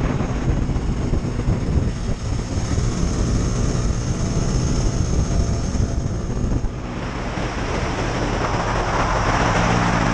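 KTM 250 Duke's single-cylinder four-stroke engine running, dipping briefly about two-thirds of the way in, then building louder again.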